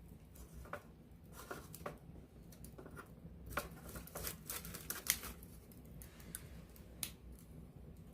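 Wood campfire heard close up, crackling and popping: irregular sharp snaps that come thickest in the middle, with one sharp pop near the end.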